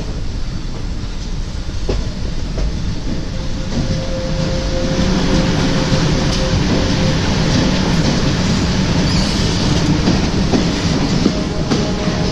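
An Indian Railways express train running at speed, heard from an open coach doorway: a steady rumble and clatter of wheels on the rails with occasional sharp clicks. It grows louder as the train enters a tunnel partway through. A thin steady squeal sounds over it for a few seconds near the middle.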